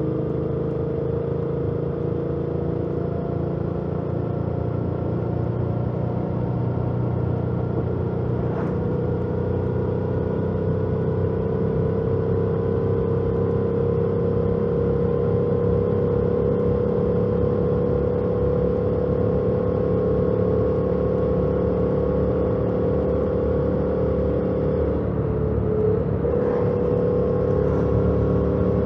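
2018 Yamaha MT-07's parallel-twin engine with its stock exhaust, running under steady throttle while riding, its pitch slowly rising. There is a brief dip in engine pitch near the end.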